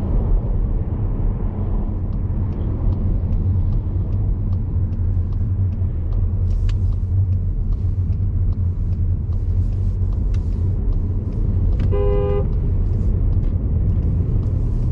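Steady road and engine rumble inside a moving Skoda Superb's cabin. About twelve seconds in, a single short horn beep sounds.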